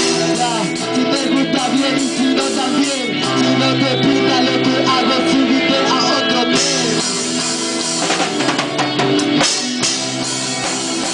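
Live band playing an instrumental passage of a rock song: guitar with bending, sliding notes over a drum kit.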